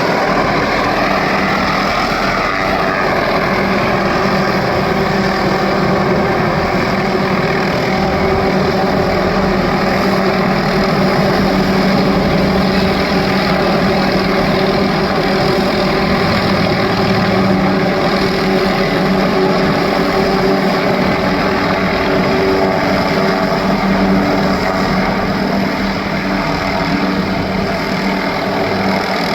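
MD 500 helicopter hovering with its long-line tree saw running beneath it: a loud, steady engine and rotor sound that does not let up.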